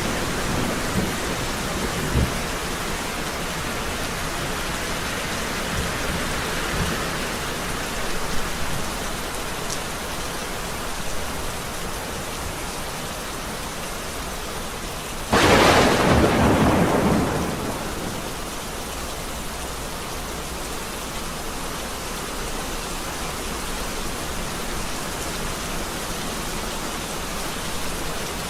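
Steady rain falling through a thunderstorm, with low rumbles of thunder near the start. Just past halfway a sudden loud thunderclap cracks and rolls away over about two seconds, then the rain goes on alone.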